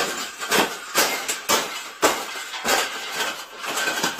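Irregular knocks, rattles and clinks of an object being bent and folded by hand, several a second.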